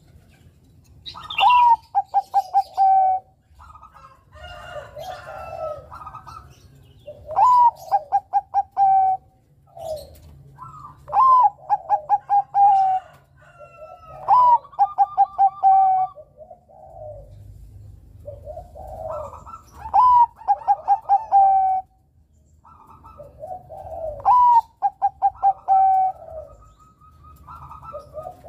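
Bangkok-type zebra dove (perkutut) singing its cooing song: about six loud phrases, each a rising note and then a quick run of clipped coos, coming every four seconds or so, with softer cooing between them.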